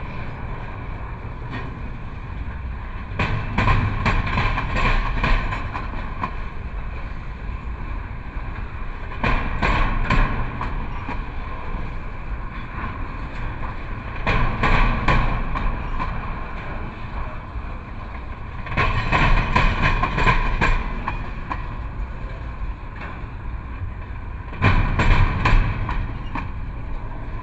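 CSX intermodal freight train's double-stack well cars rolling past close by with a steady rumble, the wheels clacking in a group of clicks about every five to six seconds as each set of trucks goes by.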